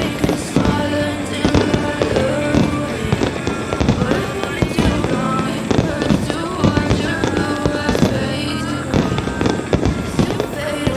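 Fireworks shells bursting one after another in quick succession, with music playing underneath.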